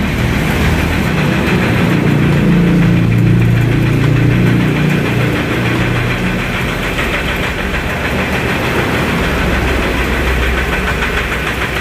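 Vehicle engine running at idle with a knocking clatter, swelling louder a couple of seconds in, then settling to a steady run.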